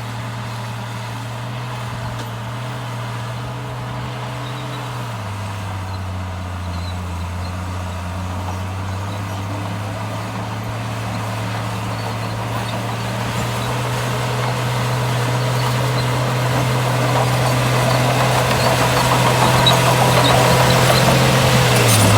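Heavy diesel engine of earthmoving machinery running steadily. Its note drops about five seconds in, then grows louder toward the end.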